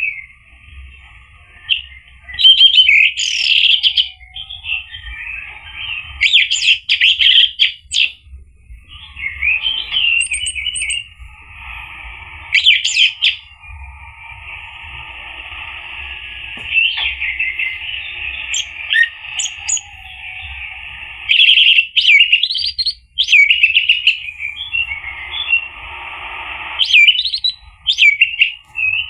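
Orange-headed thrush (anis merah) singing: loud, sharp whistled phrases alternate with long runs of rapid, continuous warbling.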